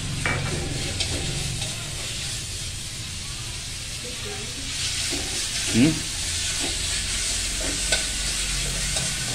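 Meat sizzling as it is stir-fried in a wok, the frying hiss growing louder about five seconds in, with scattered light clicks. A short squeak stands out near the middle.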